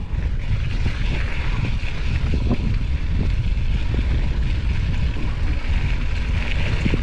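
Wind buffeting the microphone of a mountain biker riding fast down a dirt trail, a steady low rumble, with the tyres rolling and small knocks and rattles from the bike over bumps.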